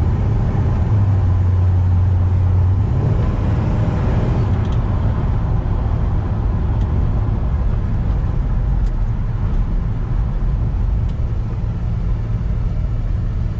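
A 1957 Chevrolet 3100 pickup's 350 small-block V8 running as the truck is driven, with road rumble. For the first three seconds a steady low drone dominates; then the engine note shifts and settles into a broader, even rumble.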